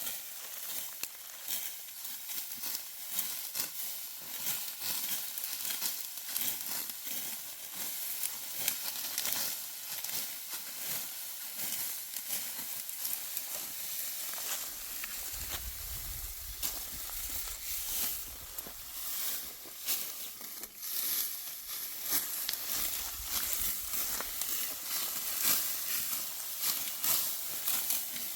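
Dry wheat stalks rustling and crackling as they are cut and gathered by hand with a sickle, in a dense, irregular run of snaps, with a brief low rumble about halfway through.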